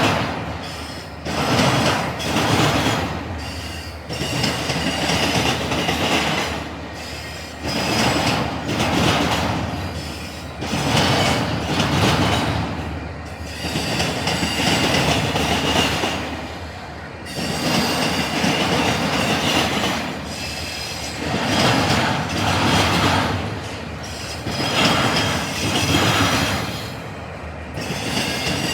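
Intermodal freight train cars rolling over a railroad diamond crossing, the wheels banging across the crossing in repeated loud surges a second or two apart, with a high wheel squeal.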